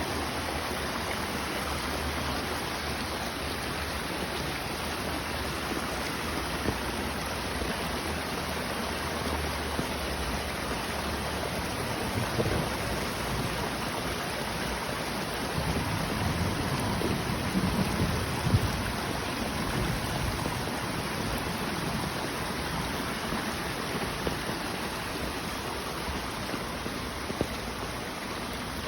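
A stream flowing, giving a steady rush of running water, with a low rumble swelling for a few seconds past the middle.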